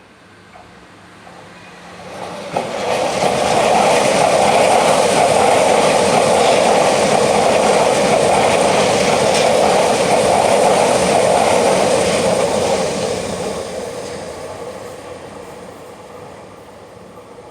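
Tokyu 2020 series electric commuter train passing by on the track. The running noise of its wheels on the rails swells over about two seconds, stays loud and steady for about eight seconds, then fades away as the train moves off.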